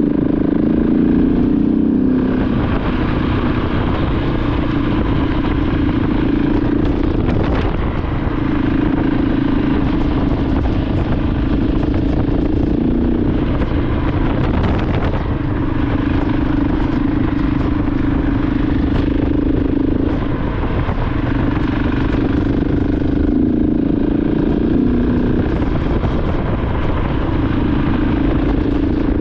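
KTM 690 Enduro R's single-cylinder engine running steadily under way, its note shifting a little lower and higher a few times, over steady wind noise.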